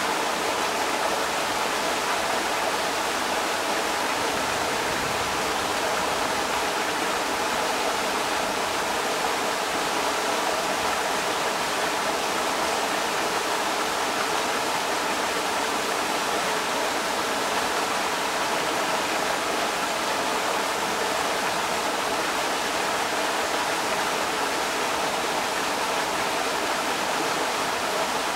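Creek water rushing over rocks in a steady, even rush of water noise.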